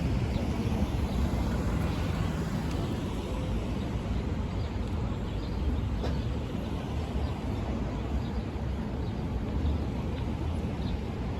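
Street ambience: steady traffic noise from a city avenue, a continuous rumble with no single event standing out.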